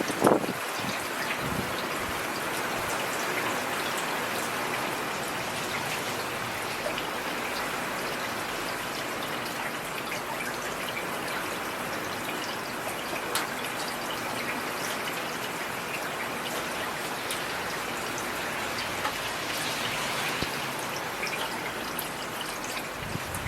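Heavy rain falling steadily, with scattered ticks of individual drops, and a brief low thud just after it begins.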